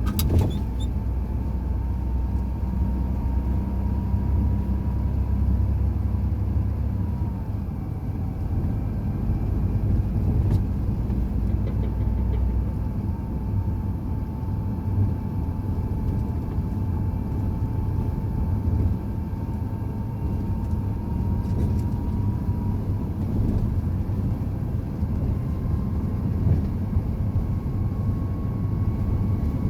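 A truck driving along: a steady low engine and road rumble with a thin whine that drifts slightly in pitch, the low rumble shifting a couple of times as the engine load changes.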